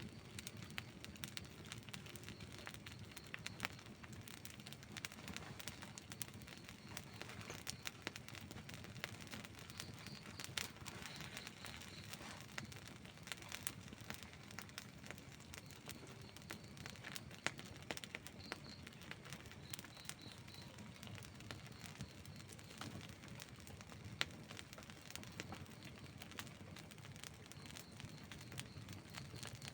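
Wood campfire burning, crackling steadily with many small sharp clicks over a soft hiss and now and then a louder pop.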